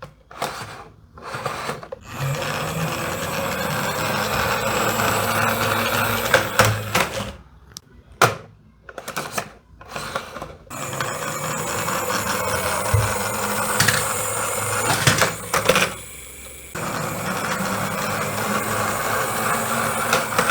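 Diecast toy military trucks rolling along a toy track: a steady rolling noise of small wheels in three long runs, with short clicks and knocks between the runs.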